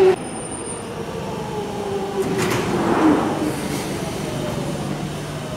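London Underground Jubilee line train running with a steady whine that falls slowly in pitch as it slows.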